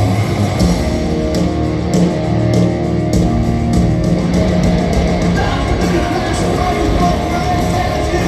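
Rock band playing loud and live in an arena: electric guitars, with drums and bass guitar filling in fully about three seconds in.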